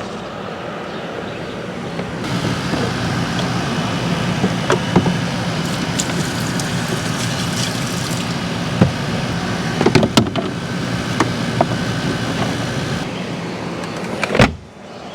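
Portable air conditioner running: a steady fan rush over a low hum, with scattered clicks and knocks. A louder knock comes near the end, after which the noise drops away.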